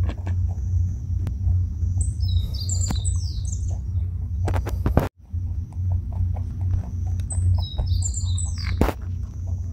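Small birds chirping in two quick bursts of short falling notes, over a steady low rumble. There are scattered faint clicks and a brief cut in the sound about halfway through.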